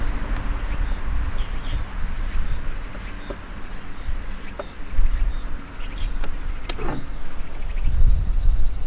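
Insects calling: short high-pitched pulses repeating a little faster than once a second over a steady high trill. A low rumble runs underneath, with a few faint knocks.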